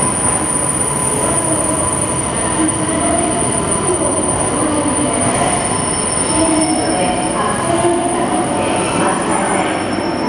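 JR Hokkaido 733 series electric multiple unit rolling slowly into a station over curved track, with a steady high-pitched wheel squeal on the curves above the running noise.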